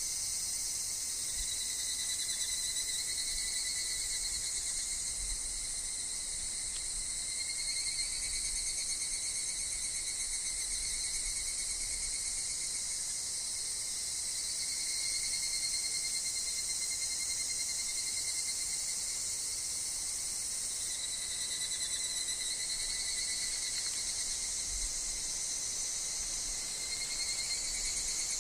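Steady chorus of singing insects, higurashi (evening cicadas) among them: a dense, high shrill with a couple of ringing, slightly wavering tones underneath.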